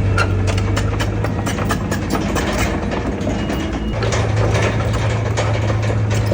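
Heavy diesel earthmoving machinery running, a low steady engine hum under dense rapid clattering; the hum fades for a couple of seconds and returns strongly about four seconds in.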